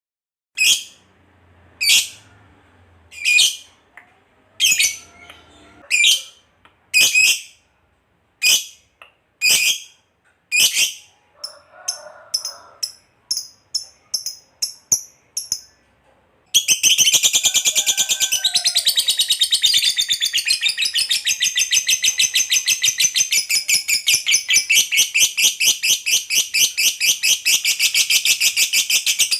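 Lovebird calling: shrill separate chirps about a second apart, growing shorter and quicker, then about sixteen seconds in breaking into a long unbroken rapid chattering trill, the 'ngekek panjang' that lovebird keepers prize.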